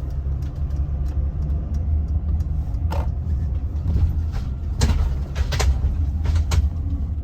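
Steady low road rumble inside a moving car's cabin, with a few short sharp clicks scattered through it.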